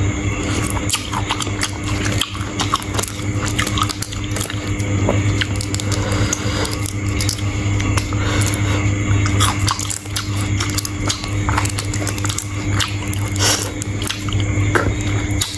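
Close-miked chewing and biting of sea shrimp: many quick wet crunches and clicks over a steady low electrical hum.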